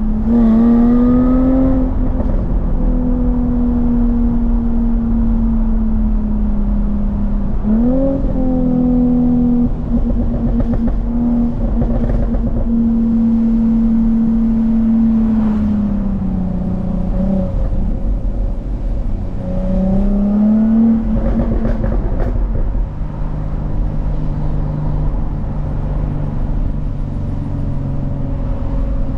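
Jaguar F-Type S's supercharged 3.0-litre V6 engine running at a steady note. The revs sweep up briefly three times: at the very start, about 8 seconds in and about 20 seconds in. The engine settles to a lower, steady note for the last several seconds.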